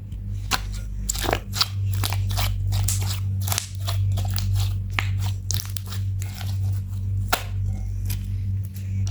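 Hands mixing and squishing slime, with a dense run of irregular sticky pops and crackles, over a steady low hum.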